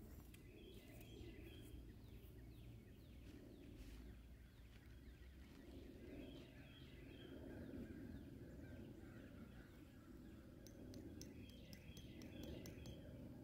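Faint outdoor background noise with a bird singing a short phrase of a few quick high notes three times, about every five to six seconds. Rapid faint ticking comes in near the end.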